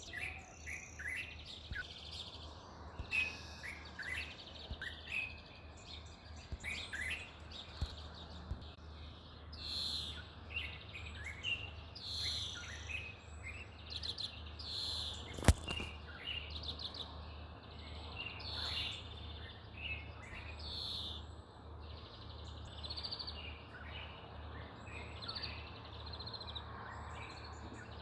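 Birds chirping and singing: many short, high chirps keep coming. A single sharp click about halfway through is the loudest sound.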